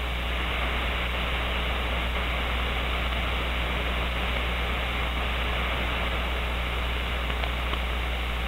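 CB radio receiver hissing with band noise on an empty channel, with no station transmitting. The hiss is steady and cut off sharply above about 4 kHz by the receiver's filter, over a steady low hum.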